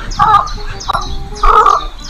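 Domestic fowl calling, a run of short, loud, harsh calls, about four in two seconds.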